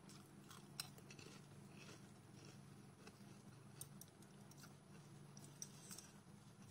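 Faint chewing of instant ramen noodles and crunchy potato chips, with a few light, sharp clicks from metal chopsticks on the plate, over a low steady hum.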